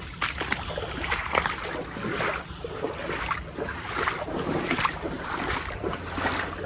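Legs wading through knee-deep floodwater, a swishing splash with each stride, about two steps a second.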